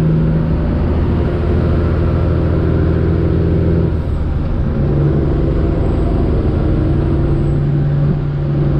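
Straight-piped Detroit Diesel engine of a Freightliner Classic XL truck running under way, a loud, steady exhaust drone heard from the cab. About four seconds in the engine note briefly dips and changes, then settles into steady running again.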